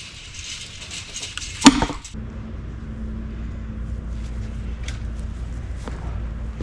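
A single sharp sledgehammer strike on a splitting wedge in oak, a little under two seconds in. It is followed by a steady low hum that runs on to the end.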